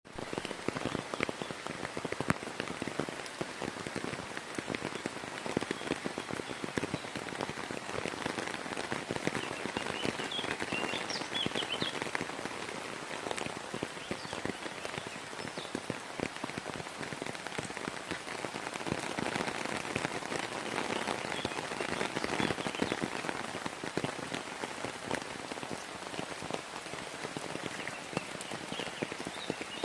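Summer rain falling steadily, a dense patter of countless individual drops striking a surface, growing a little heavier about twenty seconds in.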